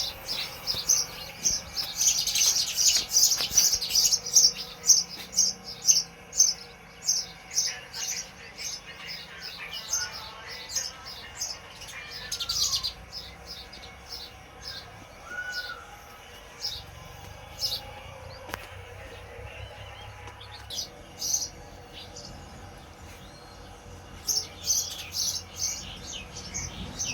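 Small birds chirping in rapid runs of short, high chirps. The chirps come thickest in the first several seconds, thin out to scattered calls through the middle, and pick up again near the end.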